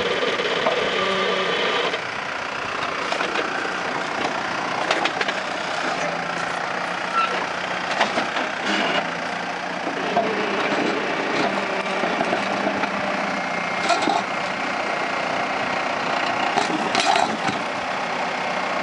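Jeep Wrangler Rubicon's diesel engine running at low revs as it crawls slowly over rock, with occasional short knocks.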